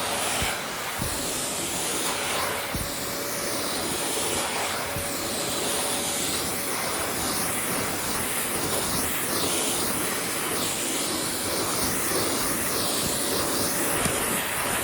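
Vacuum cleaner running steadily with a constant motor whine, its airflow rising and falling in pitch as it is moved about, with a few light knocks.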